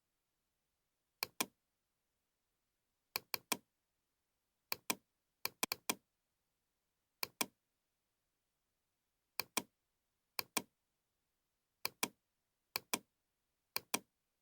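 Computer mouse clicks, mostly quick double-clicks, a pair every second or two over otherwise dead silence.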